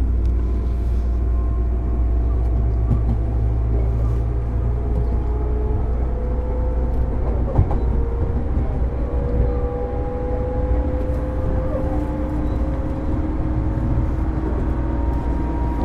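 Running sound of a JR East 205 series train heard from on board a motor car with MT61 external-fan traction motors: a steady low rumble under a motor and gear whine that rises slowly in pitch. A single sharp knock comes about halfway through.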